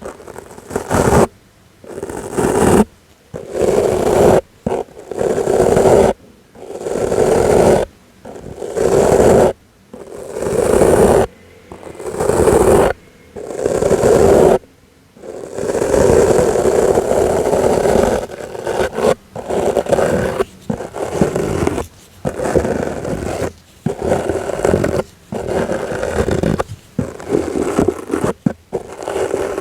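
A soft brush sweeping in repeated swishing strokes, about one every one and a half seconds. Partway through, the strokes come quicker and run together.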